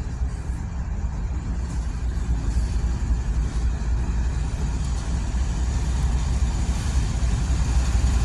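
Steady low rumble of a moving vehicle, with a hiss that grows louder toward the end.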